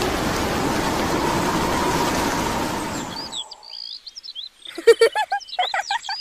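Steady rain hiss that cuts off suddenly a little past three seconds in. Birds chirping follow, with a few louder short pitched calls near the end.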